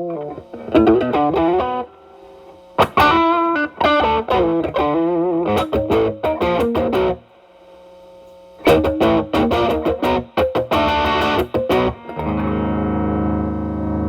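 Telecaster through an E.W.S. Brute Drive distortion pedal with its boost on, into the drive channel of a Marshall Valvestate amp, playing distorted lead phrases with wavering vibrato notes. There are two short pauses, and a chord is struck about twelve seconds in and left ringing.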